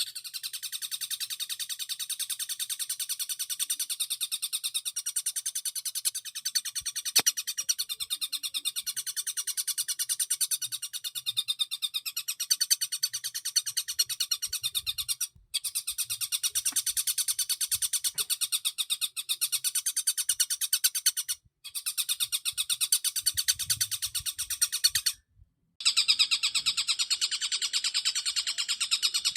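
Long-tailed shrike (cendet) singing a fast, unbroken chattering song of rapid high notes, mimicking kingfisher (tengkek) and sparrow (gereja) calls. It stops briefly three times.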